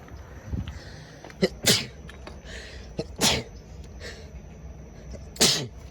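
Three quick sneezes, about a second and a half apart, each starting with a short click.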